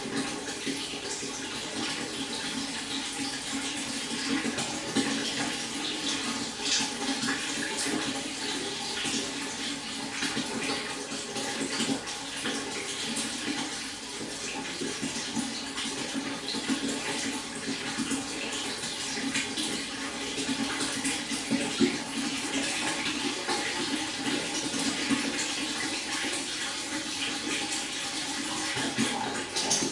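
A stream flowing and babbling steadily, a continuous rush of water with many small irregular splashes.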